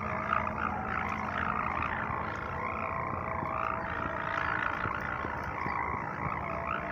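Sendaren hummer on a flying pegon kite droning in the wind: a continuous buzzing hum that wavers up and down in pitch, over a low wind rumble.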